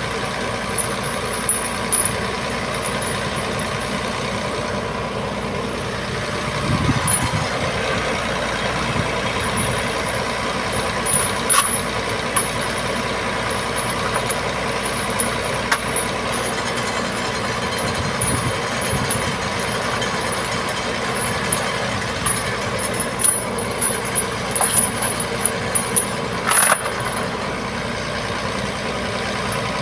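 Heavy truck's diesel engine running steadily, with a few sharp clicks and a single sharp knock near the end.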